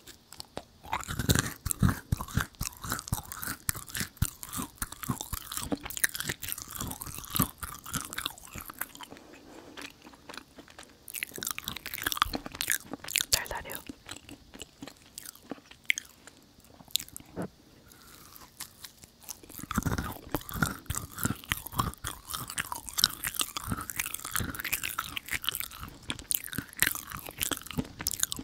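Close-miked chewing of chewy stuffed dried jujubes, with sticky, wet mouth clicks and some crunch. It comes in two busy bouts with a quieter spell of chewing in between.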